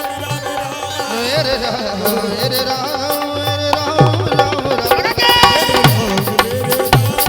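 Instrumental interlude of a live devotional bhajan band: a hand drum keeps a steady beat under a wavering melody line. The drum strokes grow stronger about four seconds in.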